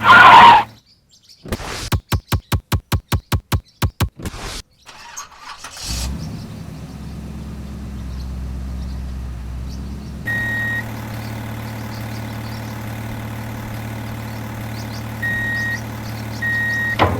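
Mini tractor engine being cranked, about a dozen even strokes at roughly four a second, then catching about six seconds in and idling steadily. A short sharp burst comes at the very start, and three short high beeps sound in the second half.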